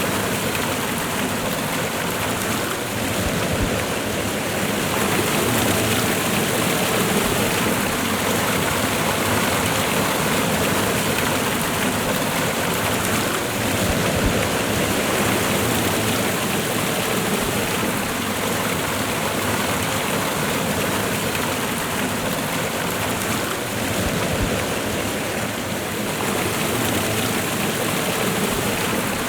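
Waterfall and fast-running river water, a steady full rushing sound without break.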